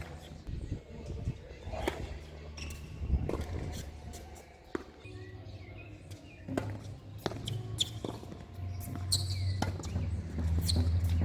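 Tennis ball being hit and bouncing on the court: a series of sharp knocks at irregular spacing, over a low steady hum.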